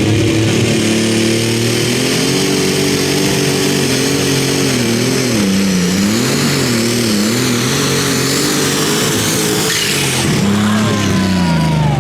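Pulling truck or tractor engine running hard at high revs, its pitch wavering and dipping through the middle, then falling away near the end as it comes off the throttle.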